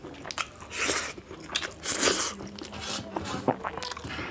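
Close-up chewing and biting sounds of a person eating a mouthful of food, with irregular wet clicks and two louder noisy swells about one and two seconds in.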